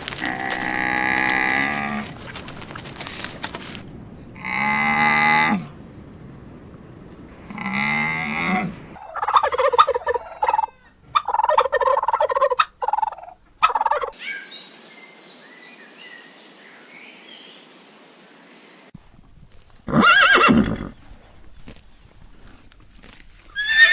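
A run of different farm-animal calls, one after another: three drawn-out pitched calls of a second or two each, then a few seconds of rapid choppy calls, faint high chirping, and a short call falling in pitch near the end.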